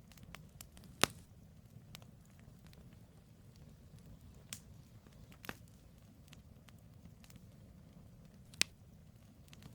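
Wood campfire burning with a low steady rumble of flames and scattered sharp pops and crackles from the firewood, the loudest pops about a second in and near the end.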